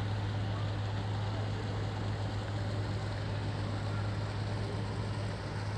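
A steady low engine hum on one unchanging pitch, over a background of noise.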